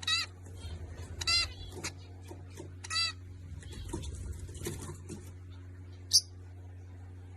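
Baby birds calling: three short, harsh calls in the first three seconds and scattered softer chirps. A sharp, high chirp comes about six seconds in. A steady low hum runs underneath.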